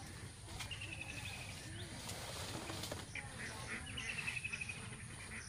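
A bird calling in quick, rattling trills, twice, against outdoor background noise, with a rustle of large taro leaves and stalks being handled in between.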